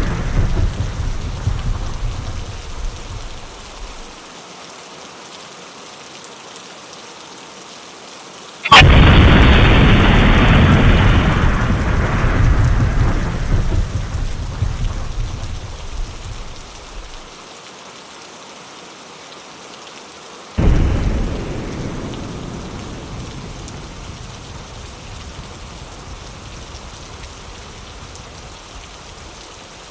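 Steady rain with thunder: a rumble dies away in the first few seconds, a sharp, loud thunderclap nearly nine seconds in rolls on for about eight seconds, and a second, weaker clap about twenty seconds in fades slowly.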